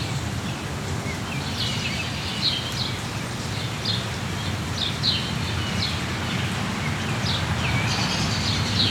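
Birds giving short, high chirps again and again over a steady hiss of rain.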